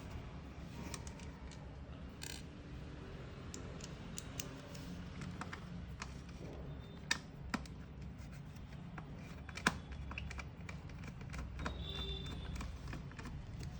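Scattered small clicks and scrapes of a screwdriver working on a plastic speaker casing and its mesh cover, with a few sharper clicks a little past the middle.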